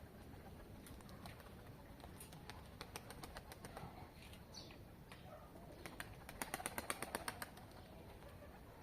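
Domestic pigeons flapping their wings. A little after the middle comes a quick run of about ten sharp claps.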